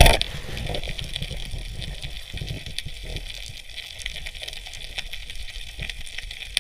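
A speargun fires underwater with one sharp, loud crack at the start, followed by steady underwater hiss and low rumble with faint crackling throughout and a smaller click near the end.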